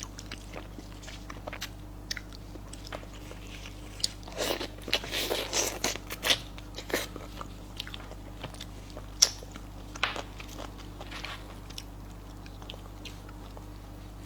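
Close-miked eating: chewing and crunching with wet mouth clicks, a busy run of bites about four to seven seconds in, then scattered single clicks.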